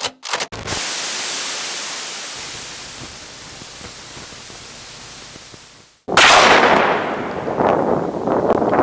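A few short crackles, then a hiss that fades away over several seconds. About six seconds in, a sudden loud gunshot breaks out, followed by a long rumbling tail.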